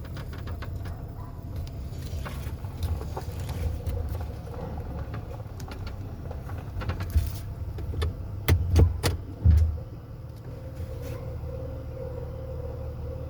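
A truck running with a steady low rumble and scattered rattles and clicks, with a cluster of four loud thumps about eight to ten seconds in.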